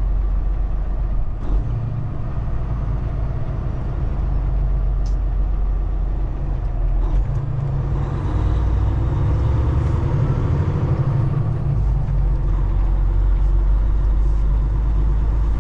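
Heavily loaded semi truck's diesel engine running, heard from inside the cab as a steady low rumble. Its note swells and shifts about halfway through, with a faint high whine rising and falling over it.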